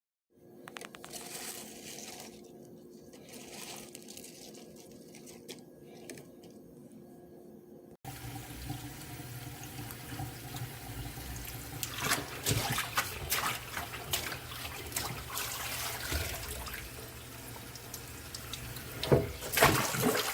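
Water running from a tap into a sink, with clicks and knocks of things being handled; the sound changes abruptly about eight seconds in, and the knocks grow louder near the end.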